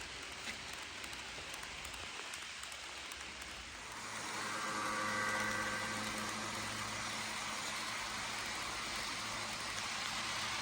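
HO scale model train led by three Southern Pacific U28C locomotives running past on the layout. A steady rushing noise carries on throughout, and about four seconds in a steady hum comes in, swells and holds.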